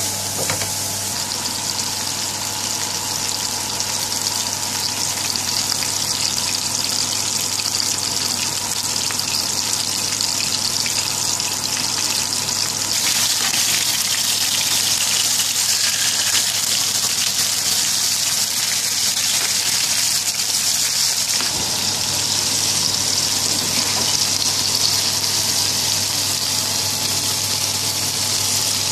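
Frying in hot oil: sliced onions in a pan, then beef burger patties sizzling, a steady hiss of spitting fat that gets louder about halfway through. A steady low hum runs underneath.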